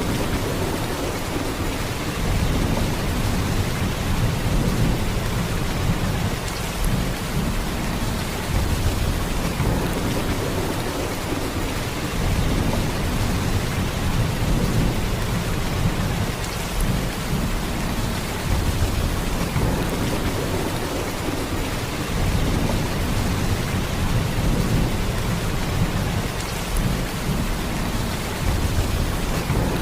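Heavy rain pouring steadily, a dense hiss over a deep low rumble that swells gently in loudness every few seconds.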